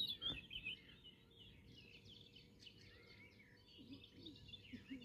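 Faint birdsong: many short chirps and warbles from several birds, over a faint steady tone.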